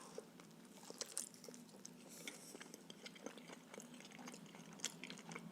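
Faint, soft chewing of a stuffed pancake, heard as scattered quiet wet mouth clicks.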